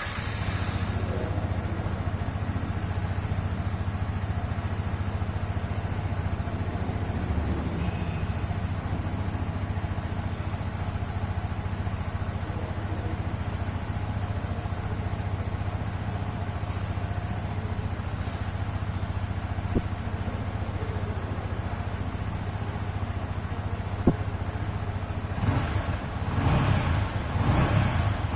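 Yamaha XSR155's 155 cc single-cylinder engine idling steadily, then revved in a few quick blips near the end.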